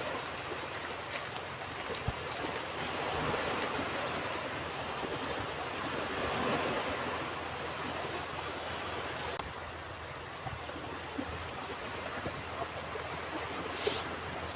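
Ocean surf washing onto a beach, a steady wash that swells and eases. A brief high hiss comes near the end.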